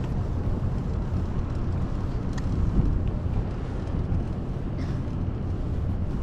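Steady low rumble of street traffic and riding noise heard from a bicycle moving through city streets, with a faint short high chirp about two and a half seconds in.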